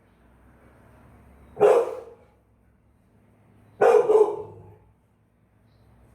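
A dog barking: two barks about two seconds apart.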